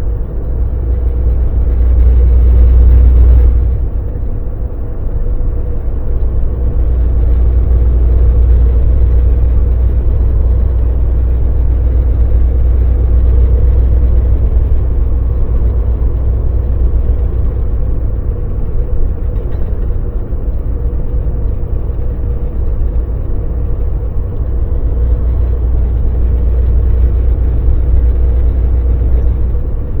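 Volvo VNL semi truck driving, its diesel engine and tyres making a steady low rumble with a constant hum. The rumble swells louder about two seconds in, then settles.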